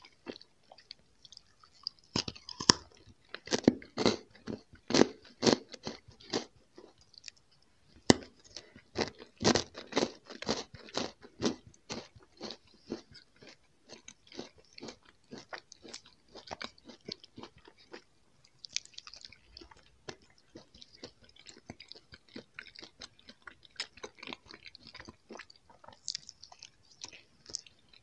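Close-miked chewing. A candy-coated chocolate ball is crunched in a run of sharp crunches through the first twelve seconds or so, then gives way to softer, quieter chewing of gummy jelly candy.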